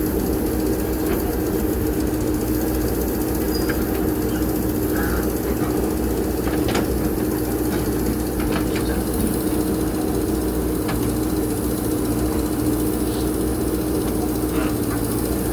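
Diesel engine of a JCB backhoe loader running steadily at working speed, with a few faint knocks and clanks from the work now and then.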